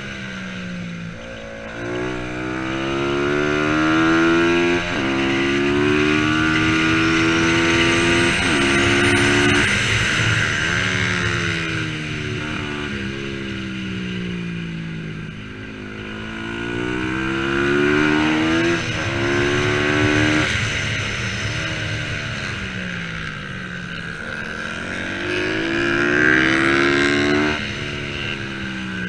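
A racing motorcycle engine accelerating hard through the gears. Its pitch climbs, then drops sharply at each upshift, in repeated runs with brief easings off between them.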